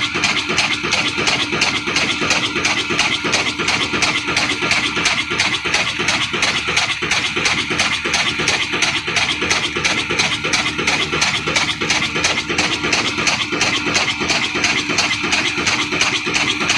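Old Ittefaq 18 hp 'kala desi' single-cylinder diesel engine running steadily, with an even, rapid beat.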